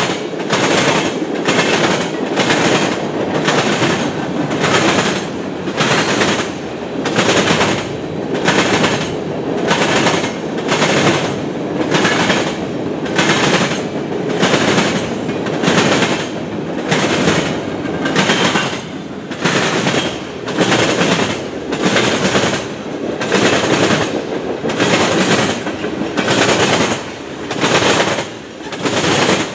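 Freight train's tank cars and covered hoppers rolling past, their wheels clacking over the track in a steady rhythm, roughly three clacks every two seconds, over a continuous rumble.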